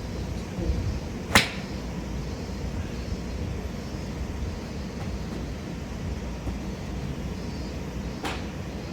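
Two sharp clicks of golf clubs striking balls: a loud one about a second and a half in and a fainter one near the end, over a steady low background rumble.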